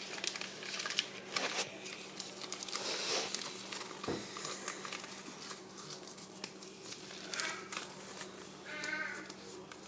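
A sheet of printer paper being folded and creased by hand, with quick crinkles and soft taps, over a steady low hum. Two short high-pitched calls come through near the end.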